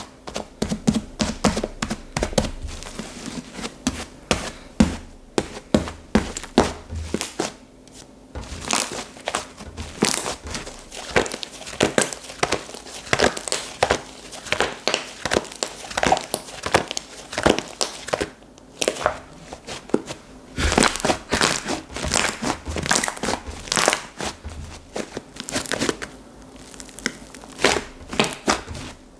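Hands squishing and stretching slime, giving a continuous stream of small crackling, clicking pops.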